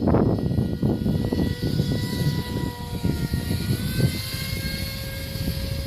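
Electric motor and propeller of a radio-controlled Icon A5 seaplane model in flight, a steady whine that drifts slightly in pitch. An irregular low rumble runs underneath, heaviest in the first second.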